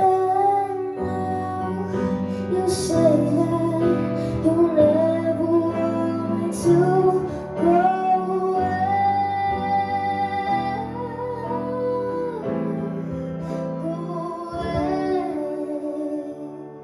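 Female voice singing a slow song over guitar-based accompaniment, with the music dropping away near the end.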